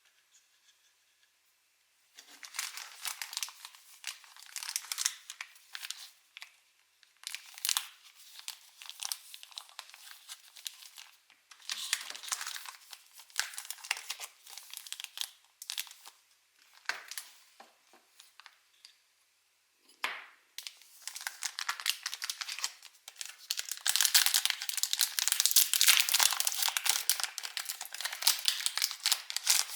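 Foil Pokémon booster pack wrappers crinkling as they are handled and torn open, in several bouts of rustling with short pauses between, the longest and loudest tearing and crinkling in the last few seconds.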